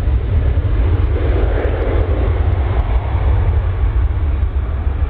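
Jet airliner engines running with a steady loud rumble and rush, swelling briefly about a second and a half in.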